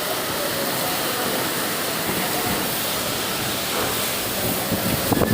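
Strong cyclone wind with driving rain, a steady rushing noise with no break.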